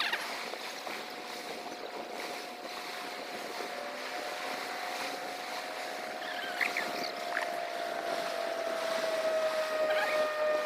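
Small birds giving a few brief, scattered chirps over a steady background hum that holds one tone, slowly sinking in pitch, with higher tones joining near the end.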